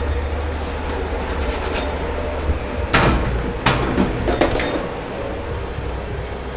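Steady low hum of commercial kitchen machinery, with three sharp clanks of dishware about two-thirds of a second apart around the middle.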